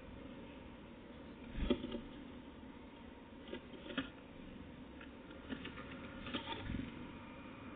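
Scattered light taps and clicks in a few short clusters over a steady low hum.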